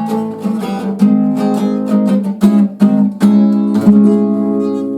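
Instrumental outro of a song: strummed acoustic guitar chords, ending on a held chord that rings out.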